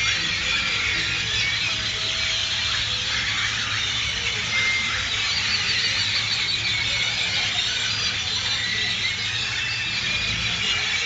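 A large flock of birds chirping and calling all at once in a dense, continuous chorus of high, squealing notes, over a steady low hum.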